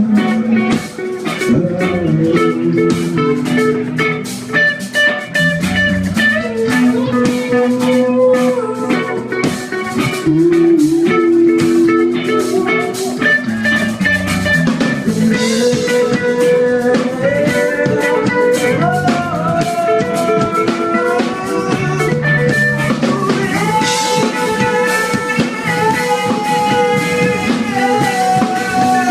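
Live rock band playing loudly: a guitar carries sustained, bending melody lines over a drum kit.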